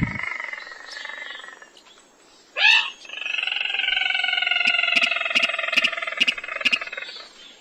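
Recorded crake calls played as a hunting lure. A drawn-out call fades over the first two seconds, a short loud rising squeal comes about two and a half seconds in, and then a long, even, buzzy call runs for about four seconds with sharp ticks through it.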